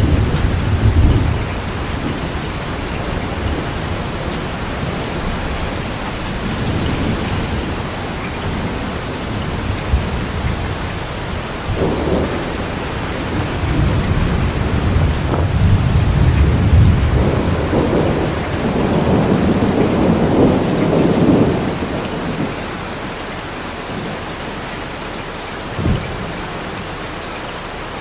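Steady rain falling, with thunder rumbling in the distance. A long rolling peal builds in the middle and dies away, and a short sharp clap of thunder comes near the end.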